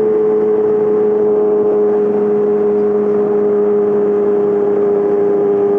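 Yamaha R6 inline-four engine through a full M4 exhaust system, running at a steady engine speed while riding, its pitch easing down very slightly.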